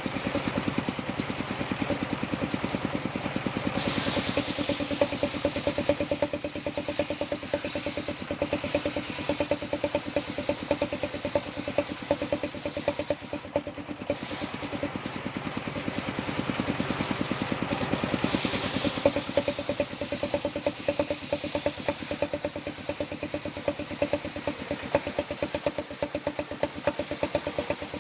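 Engine-driven circular sawmill (serkel) running steadily with a fast, even chugging, with brief stretches of brighter hiss about four seconds in and again near the twentieth second.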